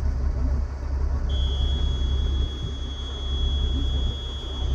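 Steady low rumble of a running engine, with a continuous high-pitched electronic warning buzzer that comes on about a second in and holds steady to near the end.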